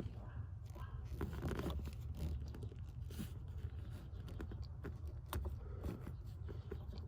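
Scattered clicks, scrapes and rustles of hands working a plastic electrical connector loose from the heater blower motor, over a steady low hum.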